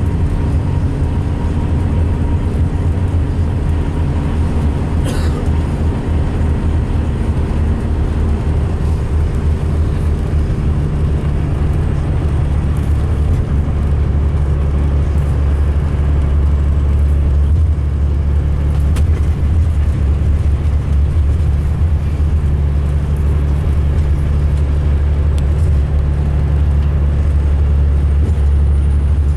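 Diesel engine of a 2005 MCI D4500 coach running as a steady low drone, its pitch shifting slightly about eleven seconds in, with one sharp click about five seconds in. The uploader says this coach sounds rough running and idling.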